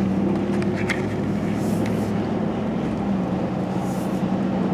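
GMC Sierra Denali's 6.2-litre V8 running at a steady speed, a constant even hum.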